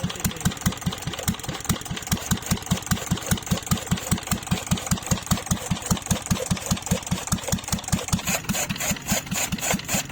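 Old diesel engine running steadily with an even, slow thudding beat, about five strokes a second. A sharper clatter rides on each beat near the end.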